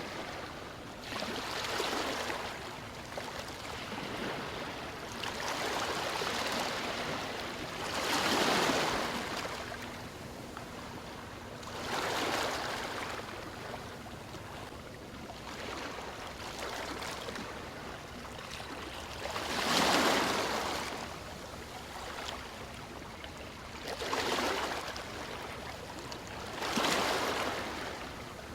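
Ocean waves washing ashore: the surf rises and falls away in about seven swells a few seconds apart, the strongest about twenty seconds in.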